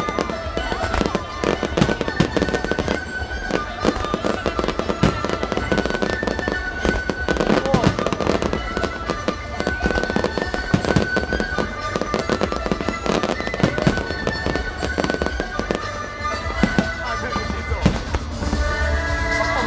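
Fireworks display: a dense, continuous barrage of bangs and crackles, with music playing underneath.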